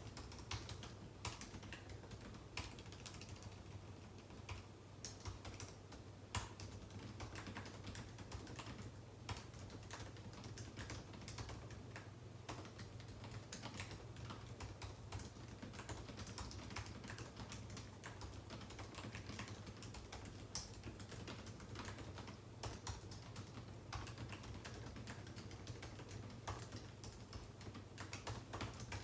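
Continuous, irregular typing on a computer keyboard, with rapid keystroke clicks, over a steady low hum.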